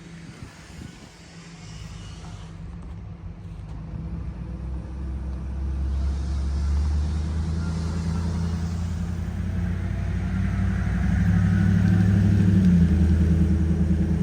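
A motor vehicle's engine running with a low, steady hum that grows steadily louder, loudest near the end.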